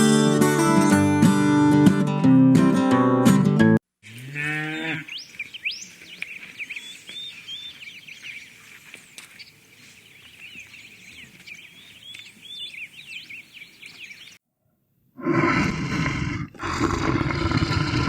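Acoustic guitar strumming, then a cow mooing once with a rising pitch, followed by about ten seconds of faint high chirps. After a brief silence, an animal starts roaring loudly near the end.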